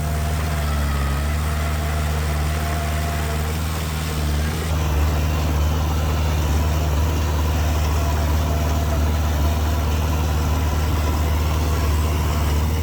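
Diesel engine of heavy earthmoving machinery running steadily at low revs, a continuous low hum. The sound shifts slightly about five seconds in.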